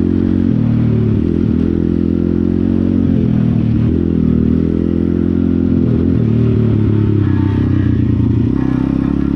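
Pit bike's small engine running steadily at a fairly constant speed, its pitch dipping slightly now and then and shifting a little near the end.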